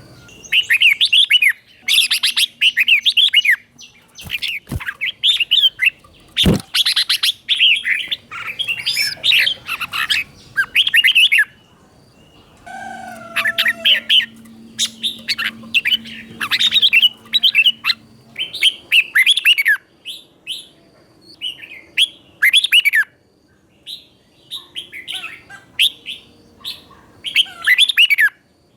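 Red-whiskered bulbul singing: runs of short, quick warbled phrases with brief pauses between them. A couple of sharp clicks come a few seconds in.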